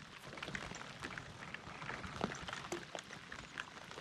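Light rain pattering: scattered, irregular taps of drops over a soft hiss.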